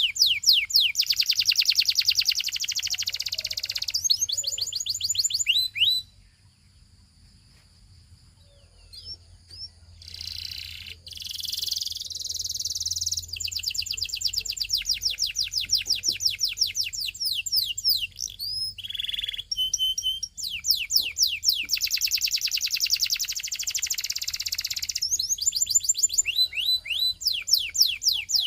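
Canary singing long rolling trills of rapidly repeated high notes. It falls silent for a few seconds about six seconds in, then resumes with more trills and chirps.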